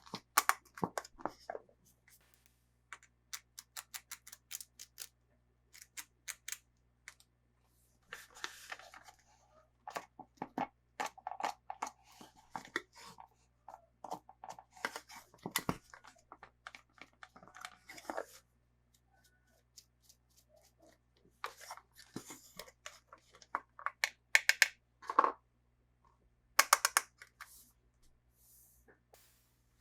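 Hands unboxing toy dolls and their packaging: a run of sharp plastic clicks and taps mixed with stretches of rustling packaging, with a short pause about two-thirds of the way through.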